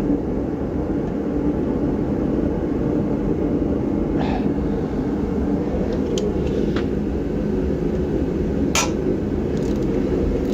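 A steady low drone, with four short sharp clicks and clinks of hand tools working on rusty hub bolts; the last click, about nine seconds in, is the loudest.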